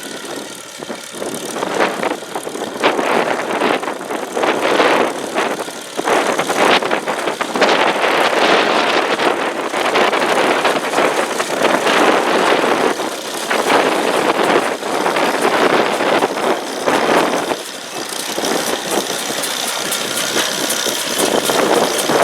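McCormick-Deering No. 50-AW pickup hay baler working, its International Harvester Farmall Cub four-cylinder engine running steadily as the baler mechanism runs, with the sound swelling and easing every second or two.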